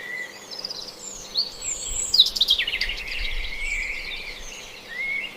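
Birds chirping and calling in short whistled glides and trills, with a quick run of sharp clicks a little over two seconds in.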